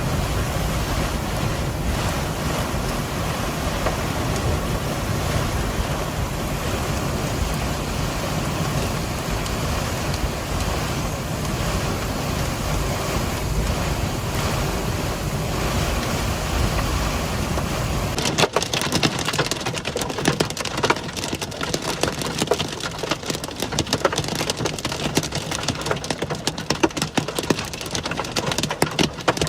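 Strong storm wind buffeting the microphone with a steady low rumble. About 18 seconds in it changes abruptly to heavy rain hitting a hard surface in dense, irregular taps.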